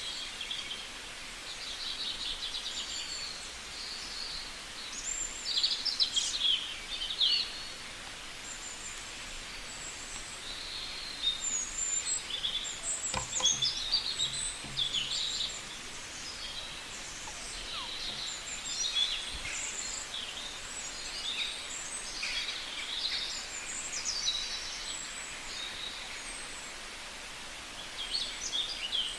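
Birds chirping and calling in short, high-pitched notes, many overlapping and irregular, over a steady outdoor background hiss, with a brief click about halfway through.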